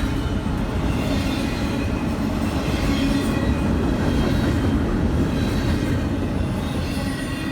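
A train rolling past with a steady rumble of wheels on the rails and a faint high-pitched wheel squeal.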